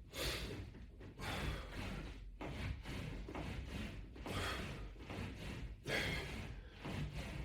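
A man breathing hard while doing sit-ups, a sharp exhale with each rep about every second, along with light thuds.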